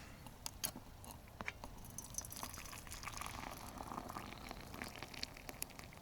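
Faint sharp metallic clinks from a just-boiled camp kettle being handled, with hot water bubbling and splashing through the middle and later part.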